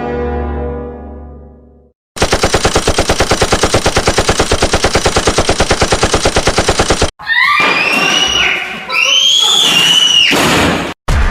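A deep horn-like tone fades out over the first two seconds. Then a machine gun fires one continuous rapid burst, about ten shots a second, lasting about five seconds. It cuts off and gives way to a few shrill tones that slide up and down.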